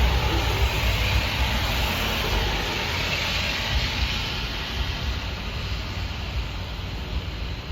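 Wind buffeting the microphone in a low, uneven rumble over a steady rushing hiss, easing slightly near the end.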